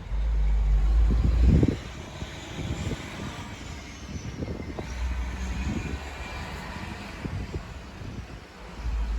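Snowstorm wind: a steady hiss with gusts rumbling against the microphone, strongest in the first second and a half and again briefly near the end.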